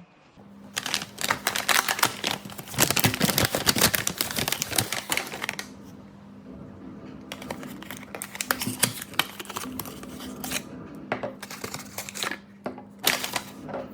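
Paper bakery bags rustling and crinkling in bursts as pastries are handled and packed.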